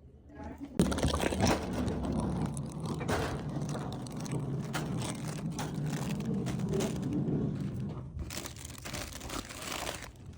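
Plastic packaging crinkling and rustling as it is handled, with many small knocks and clicks, starting suddenly about a second in.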